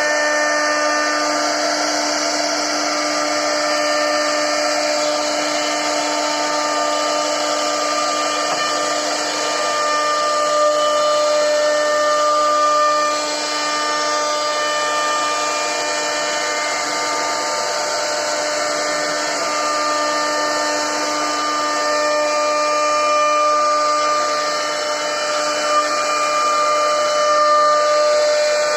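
CNC router spindle running steadily while its bit cuts into a wooden board: a continuous whine made of several steady tones over the cutting noise.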